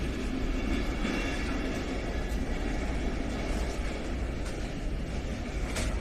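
Small rubber caster wheels rolling over a hard floor: a steady rolling rumble with a few light clicks, the sharpest near the end.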